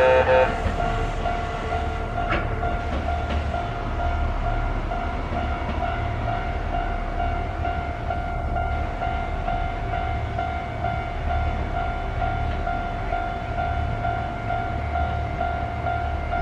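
The last notes of a Kintetsu train's melodic service horn, cut off about half a second in, then the train running through with a steady low rumble of wheels and running gear and a pulsing tone repeating about twice a second.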